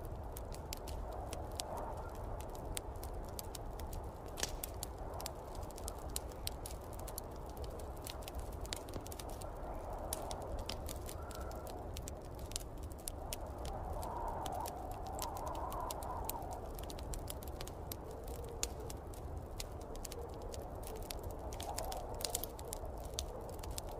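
Wood fire crackling with many irregular sharp pops, over the low steady rumble of snowstorm wind that swells in gusts, strongest about two-thirds of the way through.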